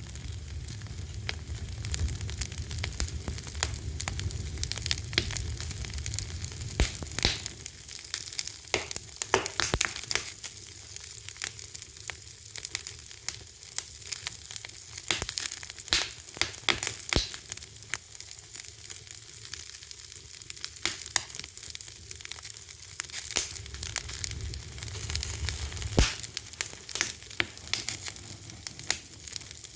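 Fire crackling, with frequent small pops and a few sharper, louder snaps scattered irregularly over a soft hiss. A low rumble sits under it for the first several seconds and comes back near the end.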